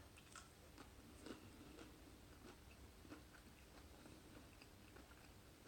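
Faint chewing of a mouthful of fish finger sandwich: soft, irregular small clicks and mouth noises, with a slightly louder one about a second in and again around three seconds in.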